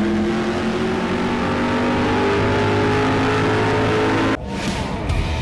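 An engine running at steady high revs, holding one pitch, that cuts off abruptly about four seconds in, giving way to guitar music.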